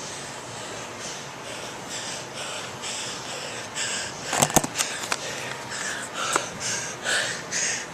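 A person breathing hard and fast after an exhausting burpee and clean-and-press workout, short heavy breaths about twice a second that grow louder in the second half. A few sharp clicks sound about halfway through.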